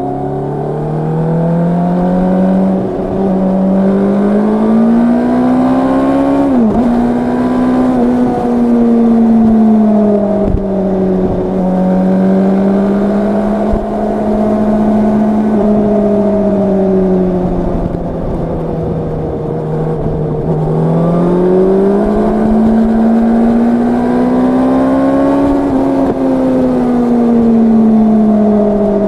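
Yamaha R1's crossplane inline-four engine and exhaust under way, heard from the rider's seat. The revs climb, drop sharply at a quick gear change about seven seconds in, and then hold steady. They sag briefly and climb again about two-thirds of the way through.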